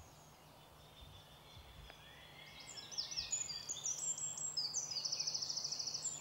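A songbird singing: a run of quick, high notes starting about two and a half seconds in and ending in a fast, even trill, over faint woodland background.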